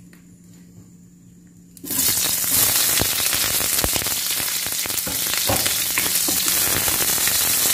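Sliced white onions dropped into hot oil in a wok, sizzling; the sizzle starts suddenly about two seconds in. A wooden spatula stirs them, with a few scraping clicks against the pan.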